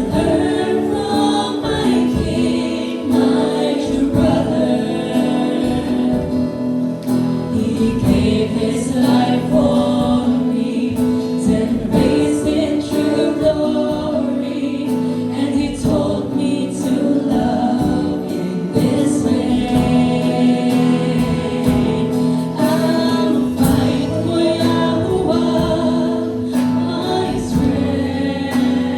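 Worship team singing a Christian worship song together over instrumental accompaniment, voices holding sustained notes.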